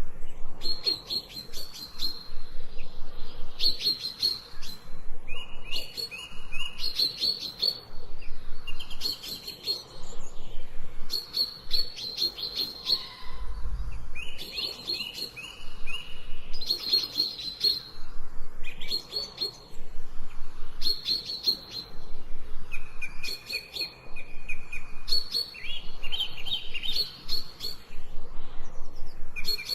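Songbirds singing: short phrases of quick repeated high notes, coming one after another every second or two, some higher and some lower in pitch.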